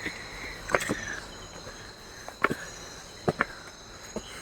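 Crickets trilling steadily in one high unbroken tone, with a handful of short sharp ticks scattered over it.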